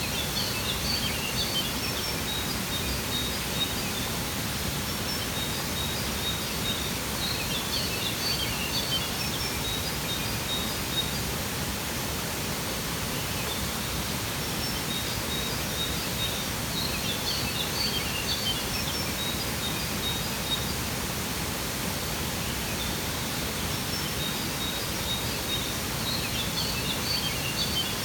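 Steady rushing of a waterfall, with clusters of small bird chirps over it that come back about every nine seconds.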